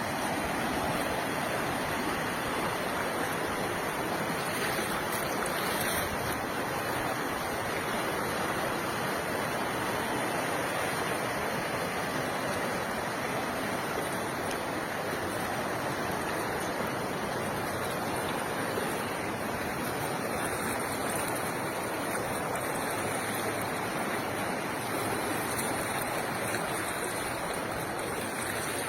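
Steady rushing noise of fast-flowing floodwater, unchanging throughout.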